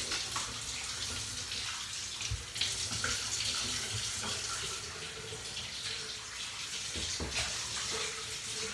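Tap water running and splashing into a basin during a dog bath, a steady hiss with a few sharper splashes, one about two seconds in and a couple near the end.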